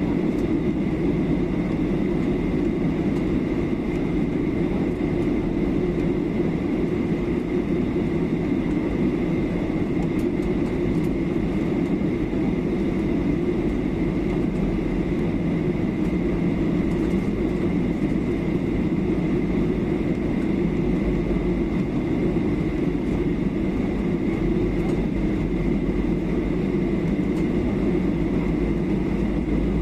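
Steady cabin noise inside a Boeing 737-800 airliner during its descent: the low drone of engine and airflow noise, with a thin steady whine above it.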